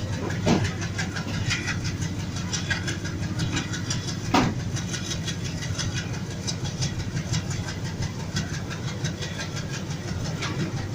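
A train carriage running along the track, heard from on board: a steady low rumble with rapid, even clicking, and two sharp knocks, about half a second in and again about four and a half seconds in.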